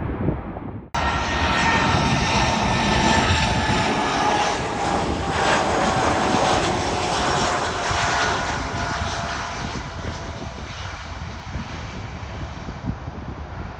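Landing airliner passing overhead, its engines a loud rushing roar with a whine that slowly falls in pitch, fading away over the last few seconds. Wind rumble on the microphone fills the first second before a sudden cut.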